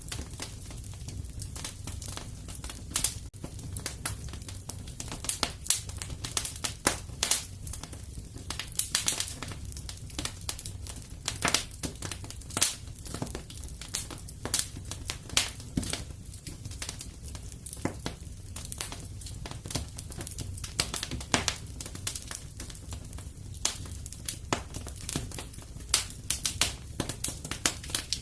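Wood fire crackling in a fireplace: irregular sharp snaps and pops, several a second, over a low steady rumble of the flames.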